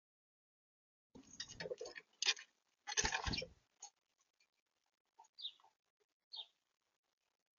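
A small bird at a seed feeder, its feet and beak scratching and tapping on the feeder in a busy clatter of clicks, then two short chirps about a second apart near the end.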